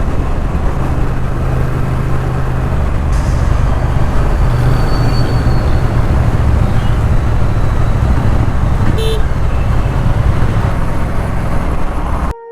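Motorcycle riding on the road: a Triumph Street Twin's parallel-twin engine runs steadily under heavy wind and road noise, with a short horn toot about nine seconds in. The sound cuts off abruptly just before the end.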